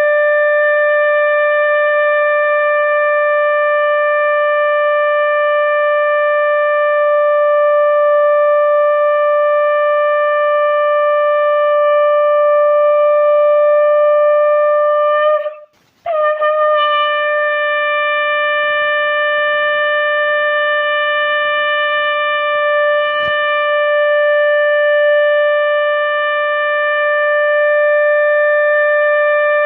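Conch shell (shankh) blown in one long, steady note. The note breaks off for about a second near the middle and then starts again at the same pitch.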